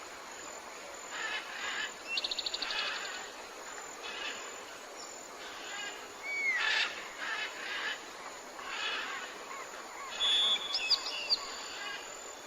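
Tropical forest ambience with several birds calling in turn: short repeated calls, a fast trill about two seconds in, an arched whistle around the middle, and clear piping notes near the end. A steady high insect drone runs under the calls.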